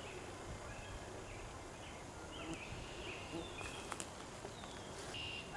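Wild birds calling in a wetland: a string of short, high chirps and whistles, some sliding down in pitch, with a few sharp clicks just before four seconds in.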